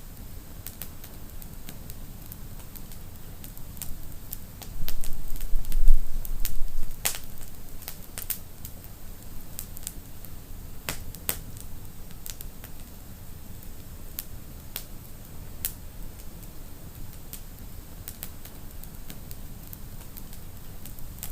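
Wood fire in a fireplace crackling, with irregular sharp pops over a steady low rumble of flames. The rumble swells louder for a couple of seconds about five seconds in.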